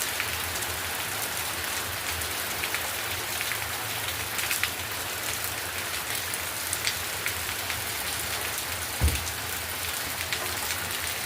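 Steady rain falling, with many individual drops clicking sharply on a nearby surface, and a single low thump about nine seconds in.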